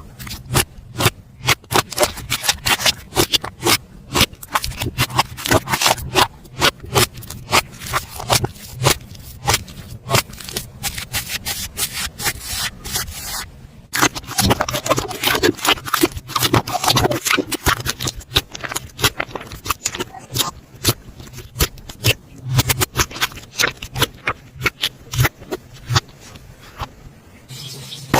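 Slime being squeezed and poked by hand, giving off irregular sharp clicks and pops, several a second, as air pockets burst.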